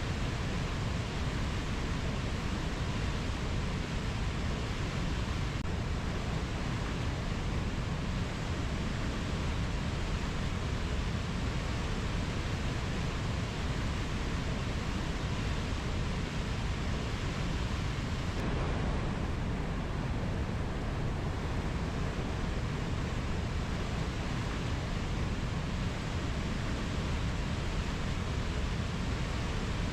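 Steady, even rushing noise of a rainforest ambience track, heaviest in the low end, with no bird or insect calls standing out. The higher part of the hiss briefly dips about two-thirds of the way through.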